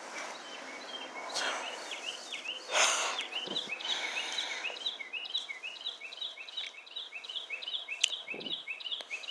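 Small bird chirping a rapid, even series of short high notes, about three a second, with a brief rushing noise about three seconds in.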